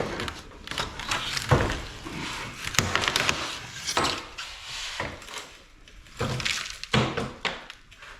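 Metal clanking and thunking at irregular intervals, with scraping between, as a part of a scrap air-conditioner unit is pried and knocked to work it loose.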